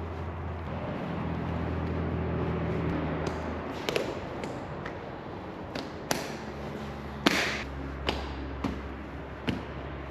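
A steady low hum that changes about three and a half seconds in. From about four seconds on, a series of sharp knocks and clicks, the loudest a little after seven seconds.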